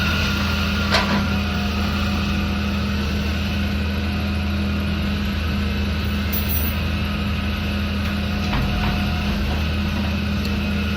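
Engine of construction machinery (excavator or dump truck) running steadily with a low hum, and a sharp clank about a second in and a fainter one near the end.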